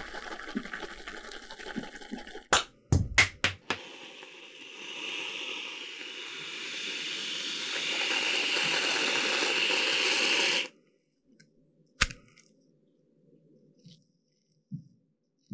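Running water, a steady rush that grows louder for about six seconds and then stops abruptly. A few sharp clicks come before it and a single click comes after.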